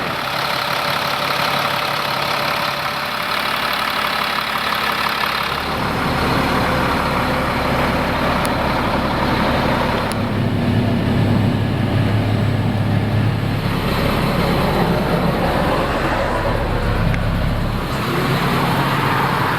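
Diesel engine of a 2006 Freightliner M2 Sport Chassis hauler truck running steadily. Its tone changes abruptly about 6 and 10 seconds in.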